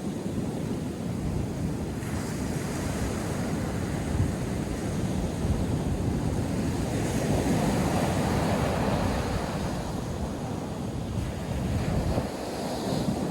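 North Sea surf breaking and washing on a sandy beach, a steady rushing that swells and eases, with low rumbling wind buffeting the microphone.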